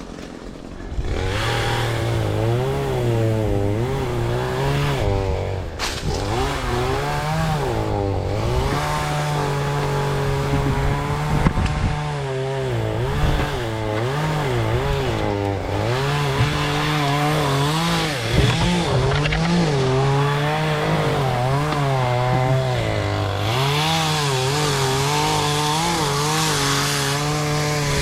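Two-stroke chainsaw running, its engine pitch rising and falling again and again as the throttle is worked while cutting limbs. It starts up about a second in.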